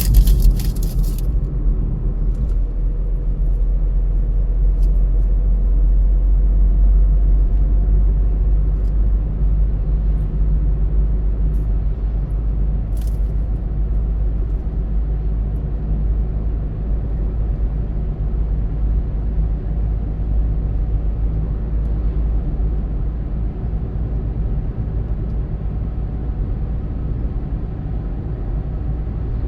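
Car driving along the road: steady low rumble of engine and tyres, with a few crackling noises in the first second and a brief click about 13 seconds in.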